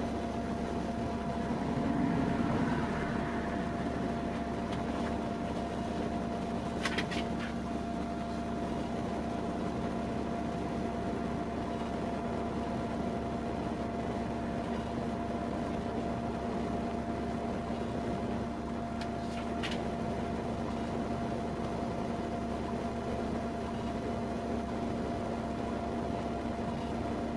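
Steady mechanical hum inside a vehicle, with a faint constant tone over an even noise. Two short clicks come about seven and nineteen seconds in.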